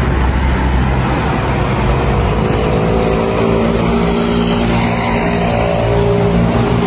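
Motor vehicle engine running steadily, a low rumble with a pitched hum that becomes clearer after about two seconds.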